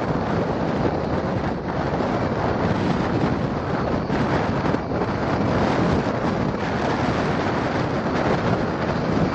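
Wind buffeting the microphone: a steady, dense rush with brief dips in a few places.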